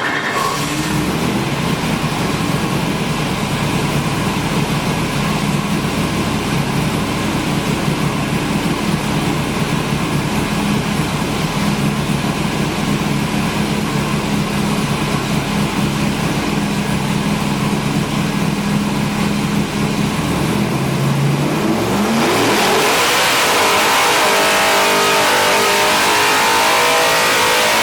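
Race-built 400-cubic-inch LS7 V8 with a solid-roller cam, running: it idles steadily for about twenty seconds, then revs up quickly and holds at high rpm to the end.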